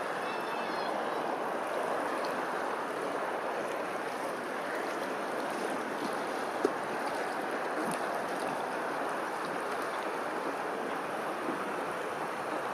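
Steady rushing of running water, like a stream. A bird gives a brief faint call about half a second in, and there is one sharp click about six and a half seconds in.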